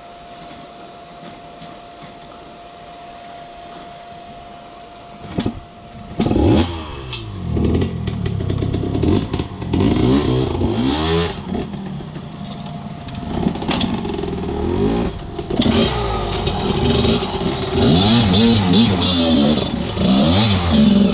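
Enduro dirt bike engine revving up and down again and again as it is ridden, coming in about six seconds in after a short quieter stretch with a faint steady hum.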